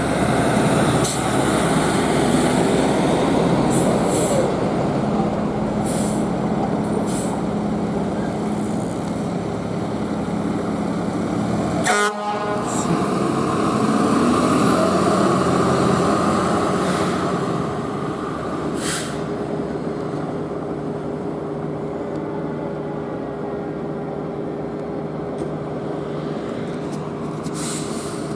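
Fire engines pulling out on a call: heavy truck engines running steadily, with short horn blasts. The sound breaks off abruptly about twelve seconds in and resumes a little quieter.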